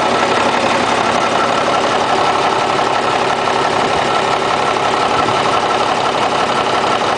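Cummins heavy-truck diesel engine idling steadily.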